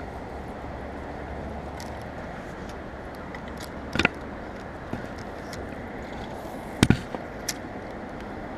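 Steady rush of flowing creek water, with a few short sharp clicks or knocks over it, the loudest a quick double knock about seven seconds in.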